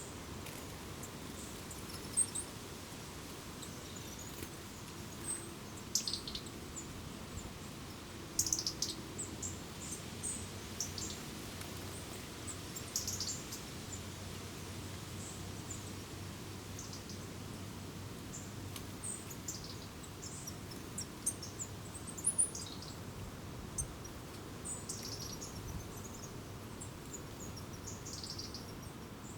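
Small wild birds chirping: short high calls now and then, in small clusters, over a steady background of outdoor noise.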